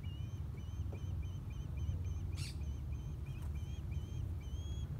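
A bird calling over and over with short high chirps, about three a second, that stop near the end, over a steady low rumble. A brief hiss sounds about halfway through.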